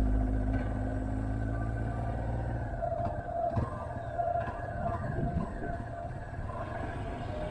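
Motorcycle engine running under way, with a steady low drone that drops away about three seconds in as the throttle eases, leaving a quieter engine and road noise.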